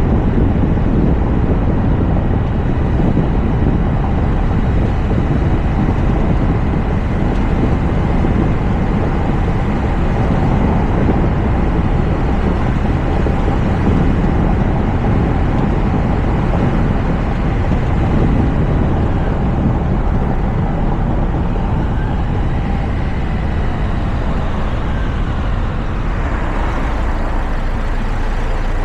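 Toyota RAV4 driving at speed, heard from a roof-mounted camera: steady tyre and road noise with engine drone and air rushing past. A faint whine shifts in pitch in the last third.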